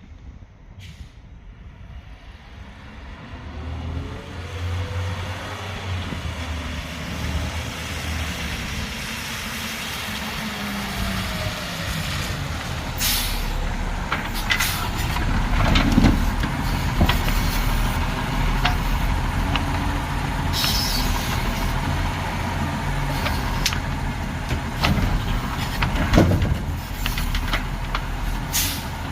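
Garbage truck engine running, growing louder as it approaches, its pitch rising and falling as it revs. Several short sharp hisses and knocks come from about halfway through.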